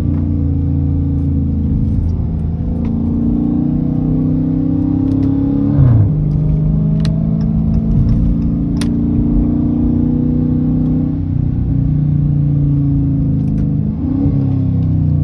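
Straight-piped Dodge Challenger R/T 5.7-litre Hemi V8 exhaust running steadily under way, with a sharp rev surge about six seconds in and another near the end, typical of downshift throttle blips.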